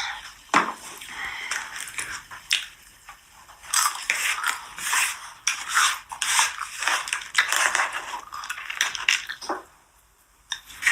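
Food being bitten and chewed with crunching, in irregular bursts of crackly bites and clicks, falling quiet briefly near the end.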